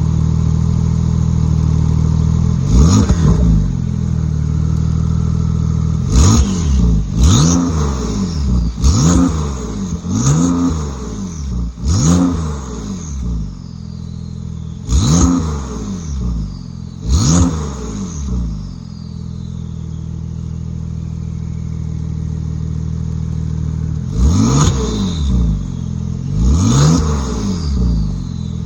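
Porsche 992 Turbo S twin-turbo flat-six, on Soul downpipes and an Akrapovic titanium exhaust, idling steadily and revved in about ten short throttle blips that rise and drop back to idle. Most of the blips come in the first two thirds, with a longer stretch of idle before two more near the end.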